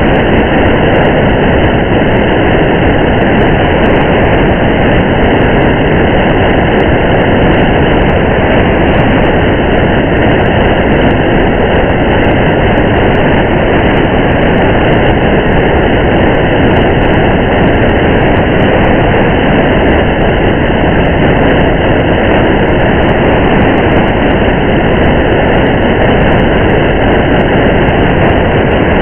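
Steady rain mixed with the constant rumble of a car driving on a wet highway: an even, unbroken wash of noise.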